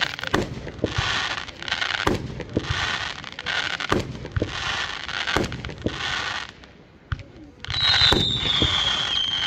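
Fireworks going off: sharp bangs about once a second, each followed by a hissing crackle. After a brief lull near the end, a whistling firework gives a long falling whistle.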